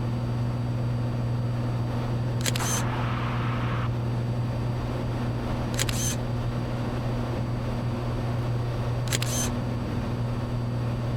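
Cessna 182's six-cylinder piston engine and propeller droning steadily in cruise, heard in the cabin. Three short sharp clicks break over it about two and a half, six and nine seconds in, the first followed by a second or so of hiss.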